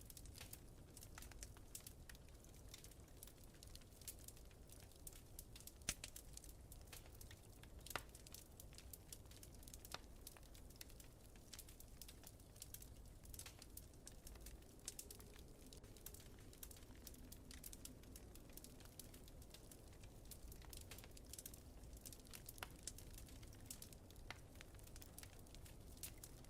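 Wood fire crackling faintly, with scattered sharp pops, the loudest about six and eight seconds in, over a low steady rumble.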